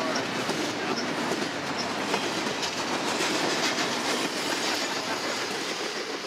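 Double-stack intermodal container train rolling past: a steady rumble and rattle of wheels on rail and of the well cars, beginning to fade near the end as the train moves away.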